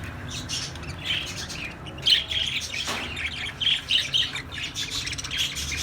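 Several parrots chirping and squawking in quick, overlapping calls, with one loud squawk about two seconds in.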